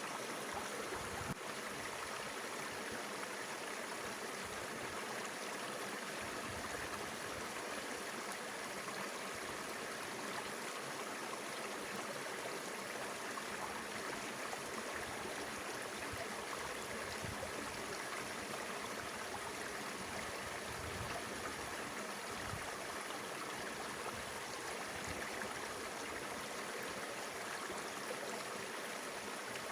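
Mountain river water flowing steadily, with one brief click about a second in.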